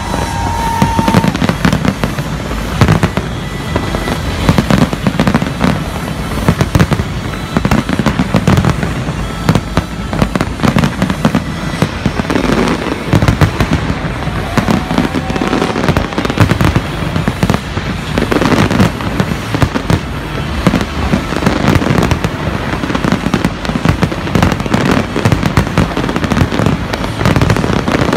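Professional aerial fireworks display going off in a dense, unbroken barrage of bangs and crackling bursts.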